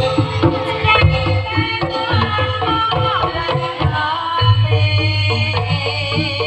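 Javanese gamelan music for a jathilan dance: hand drums (kendang) beating over interlocking metallophone tones, with a deep sustained tone coming in a little past halfway.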